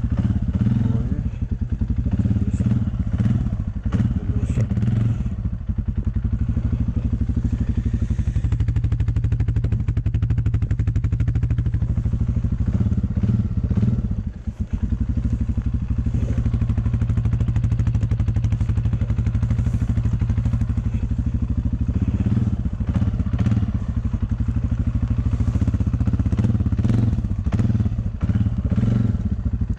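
A motor vehicle's engine running steadily at low revs, with scattered knocks and rattles over it; it dips briefly about halfway through.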